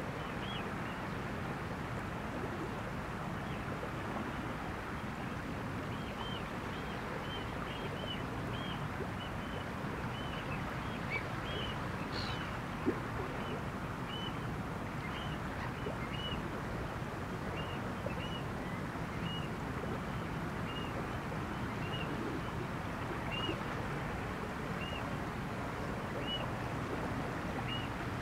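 A bird repeats short, high call notes, one every half second to a second with a few pauses, over a steady low outdoor rush of wind and water. One sharp tick sounds about halfway through.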